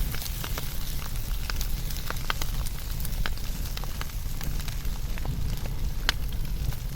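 A fire burning with irregular crackles and pops over a steady low rumble of flame. One louder pop comes about six seconds in.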